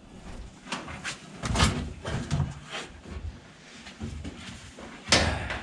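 Knocks and clatter of things being handled in a workshop, with a heavy bang, like a cupboard door or drawer shutting, about five seconds in.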